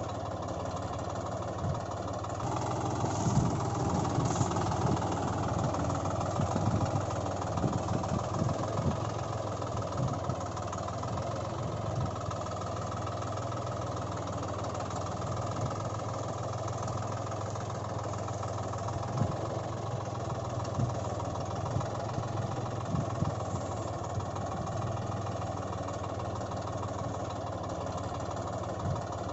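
Engine idling steadily, with short knocks scattered through it; the sound gets a little louder about two seconds in.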